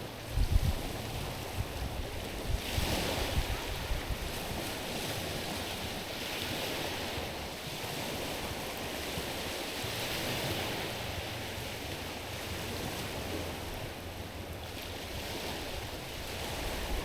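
Small waves lapping and washing over a stony shore, swelling in several washes a few seconds apart. Wind buffets the microphone with low rumbles near the start.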